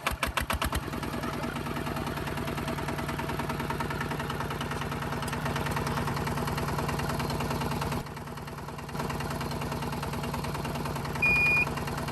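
Small motor of a DIY mini tractor starting with a few quick pulses, then running steadily with an even buzz. It drops quieter for about a second partway through. Two short high beeps come near the end.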